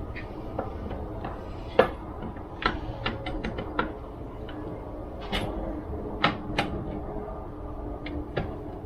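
Irregular clicks and light knocks of small chainsaw parts and tools being handled during reassembly, a quick run of them about three seconds in, over a low steady hum.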